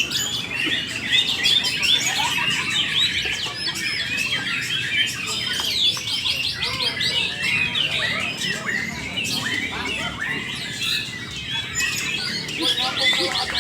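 Many white-rumped shamas singing at once from their cages, a dense, overlapping chorus of quick whistles, trills and chattering notes with no break.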